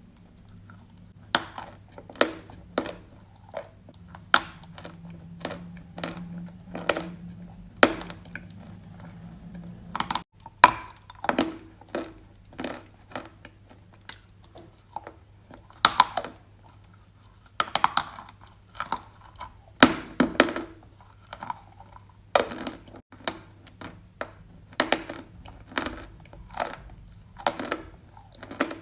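Dry edible clay being chewed close to the microphone: sharp, crisp crunches at irregular intervals, about one or two a second.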